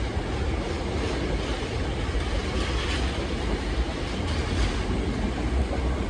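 Hankyu 8000 series electric train pulling out of the station and running past, a steady rumble of wheels on rail with a few clacks over the rail joints.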